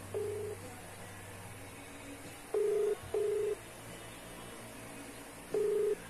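Telephone ringback tone of an outgoing call: short double rings of a steady mid-pitched tone, repeating about every three seconds, while the called number rings and is not yet answered.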